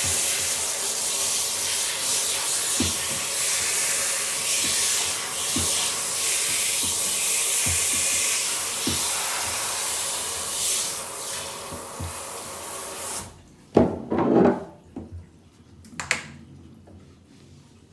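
Running water spraying steadily, with faint knocks under it. The water cuts off suddenly about thirteen seconds in, and a few short knocks and bumps follow.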